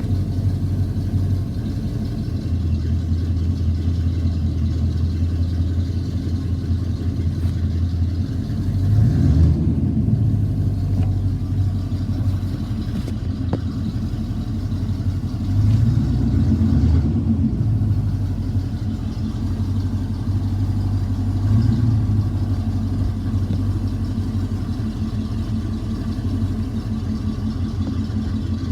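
1986 Chevy C-10's 305 small-block V8 idling steadily, blipped three times with brief revs that rise and fall back to idle, the middle rev the longest.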